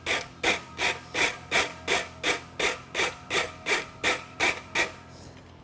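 Rasp being stroked back and forth across the edges of a steel concave horseshoe held in a vise, dressing the edges and heel after forging. About fourteen even strokes, roughly three a second, with a faint metallic ring from the shoe. The strokes stop shortly before the end.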